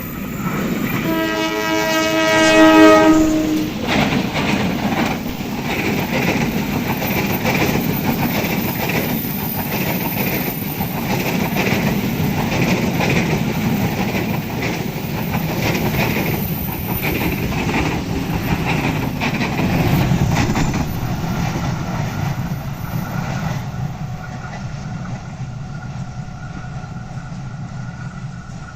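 Passenger train KA 161 Joglosemarkerto sounding its horn for about three seconds, beginning a second in. It then passes with a long run of wheels clicking over rail joints, which fades out near the end.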